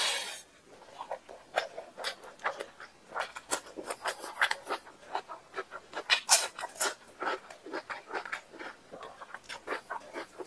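Close-up wet chewing and lip smacking as a mouthful of rice and chicken curry is eaten by hand, with irregular smacks several times a second. A short breathy burst comes at the very start, and a louder crunch of a puffed fried chip comes about six seconds in.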